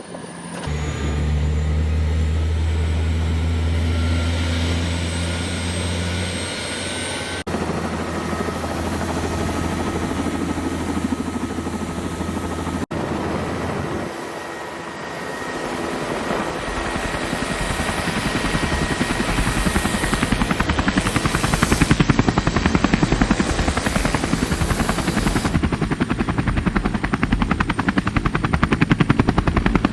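Helicopter running: a steady low drone at first, then from about halfway the fast, even chop of the rotor blades, growing louder. The sound changes abruptly a few times.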